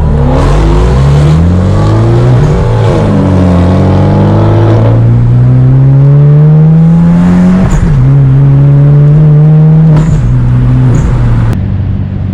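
Exhaust of a 2014 Hyundai Genesis Coupe 2.0T, a turbocharged four-cylinder with a Tomei titanium single exhaust, run hard and loud. The engine note climbs, drops back sharply at gear changes about 3 s and 8 s in, holds steady, and fades away near the end.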